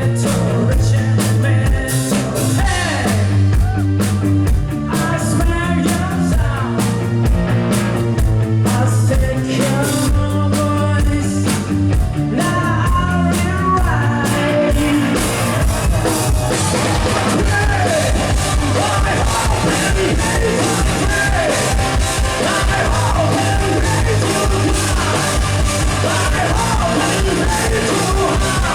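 Rock band playing live with a singer over drums and guitar. The sharp, steady drum hits of the first half give way about halfway through to a fuller, sustained wall of sound.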